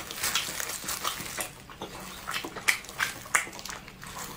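Close-miked wet chewing and lip smacking on fatty, tendon-rich meat: irregular sticky clicks and smacks, with a couple of sharper ones in the middle.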